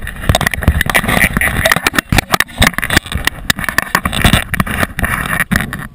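Loud, close clatter and rubbing: many quick, irregular knocks and scrapes, like things being handled and rummaged through right at the microphone.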